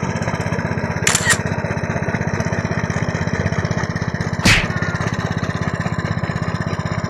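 A two-wheel hand tractor's engine running steadily with a fast, even chugging. A pair of short sharp clicks comes about a second in, and a louder sharp knock comes about four and a half seconds in.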